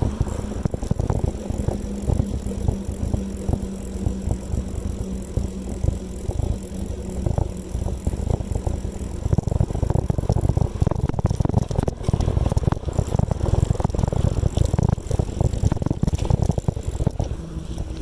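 Bicycle being ridden, its frame and parts rattling and clattering continuously over the road surface, with wind buffeting the microphone.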